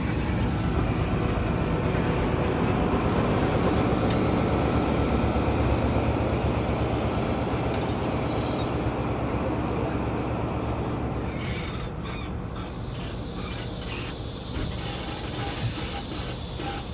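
Passenger train rolling slowly along the track, heard from an open carriage window: a steady rumble of wheels on rail and carriage running noise. About two-thirds of the way through it eases off into quieter, separate clicks and clanks.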